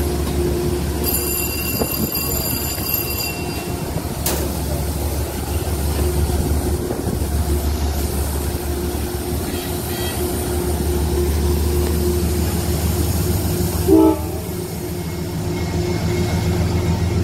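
Diesel-hauled Metro-North Hudson Line train running, with a steady low engine rumble and hum. A thin high squeal comes in the first few seconds, and a short horn blast comes about fourteen seconds in.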